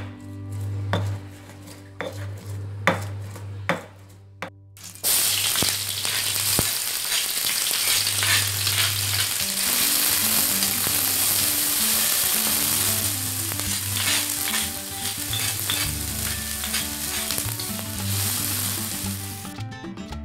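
A few knocks of spices being ground in a stone mortar, then, about five seconds in, a loud sizzle as ground shallots, garlic and candlenuts and lemongrass stalks fry in oil in a wok, stirred with a metal spatula. The sizzle cuts off shortly before the end.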